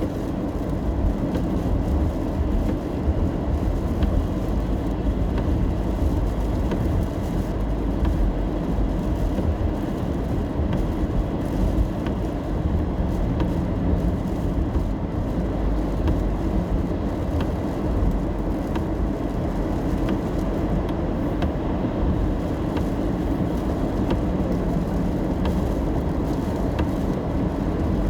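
Steady low road rumble inside a car driving on wet roads in the rain, with faint scattered ticks throughout.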